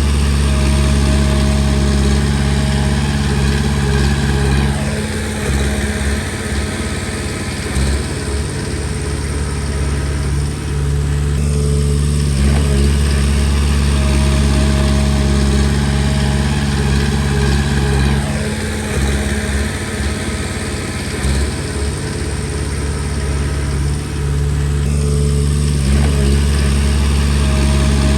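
Komatsu D20P bulldozer's diesel engine running steadily, going under load and changing pitch twice for several seconds each time as the machine works.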